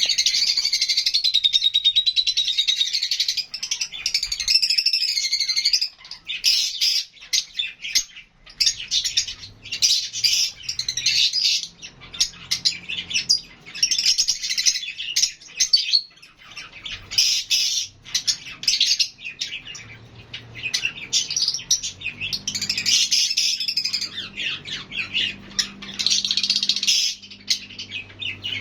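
A flock of lovebirds chirping, shrill and high-pitched: a dense, continuous chatter for the first several seconds, then bursts of chirps every second or two.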